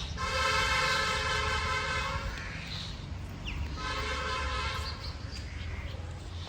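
A horn sounds twice, a long steady blast of about two seconds and then a shorter one, over a steady low rumble.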